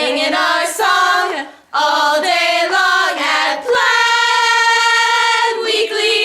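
Several voices singing a chant together in harmony, building to one long held chord about four seconds in, followed by a short closing phrase.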